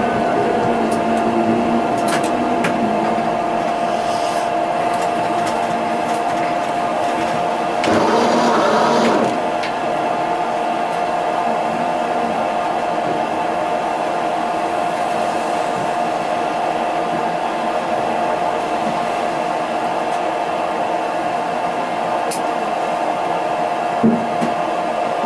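Tram running in service, heard from inside: a steady electric whine from the traction equipment over rolling noise, with a brief louder rushing noise about eight seconds in.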